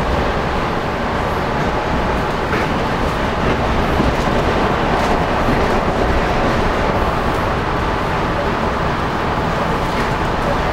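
Suburban electric train running at speed, heard from inside the passenger carriage: a steady running rumble of wheels on rails, with a few faint clicks.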